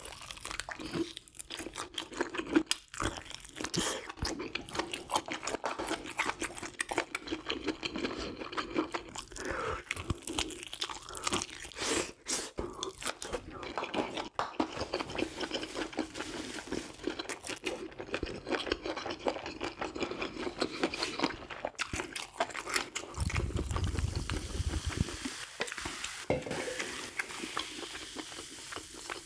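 A person chewing and crunching food in a run of irregular, closely spaced crunches. A low rumble lasts about two seconds, roughly two-thirds of the way in.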